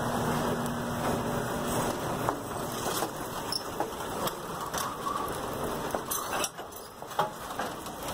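Passenger railroad coaches rolling past on wet track, their wheels and trucks giving irregular clicks and knocks over a steady hiss of rain. A low hum fades out about two seconds in.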